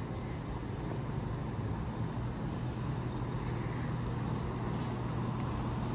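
Class 170 Turbostar diesel multiple unit's underfloor diesel engines running with a steady, even hum at the platform.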